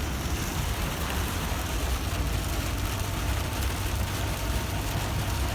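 Steady road noise inside a moving van at highway speed: a low, even rumble of engine and tyres under a constant hiss.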